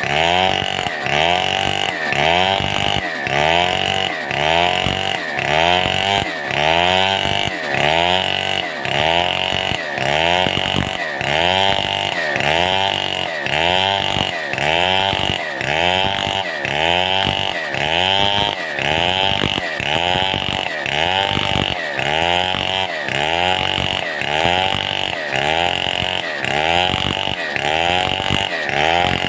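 Stihl 070 two-stroke chainsaw running under load while cutting timber, its engine pitch dipping and recovering in a regular rhythm about once a second.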